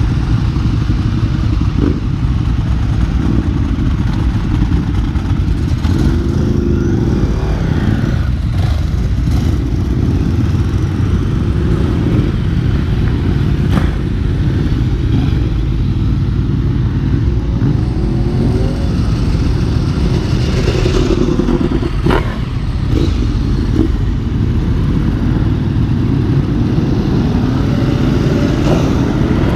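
Ducati motorcycle engines running at idle, a steady low rumble, with a few blips of the throttle that rise and fall in pitch.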